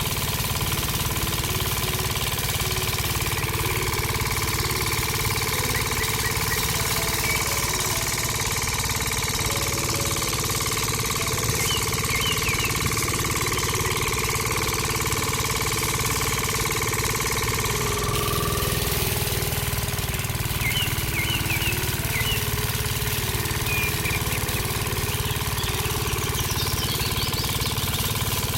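Tractor engine running steadily with a fast, even pulse, its tone shifting slightly about eighteen seconds in.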